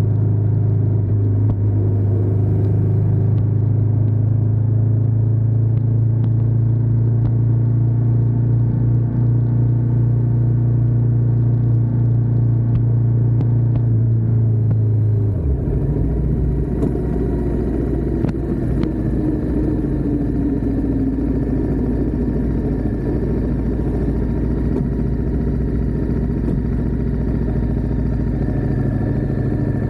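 Ducati Diavel 1260S's 1262 cc V-twin engine running at steady revs, heard from a camera on the back of the bike; about halfway through the note suddenly drops lower and rougher as the throttle closes and the bike slows toward idle.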